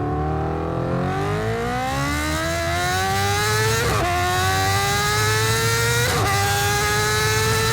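A vehicle engine accelerating hard through the gears, its pitch climbing steadily. It drops briefly at two gear changes, about four and six seconds in, then climbs again more slowly.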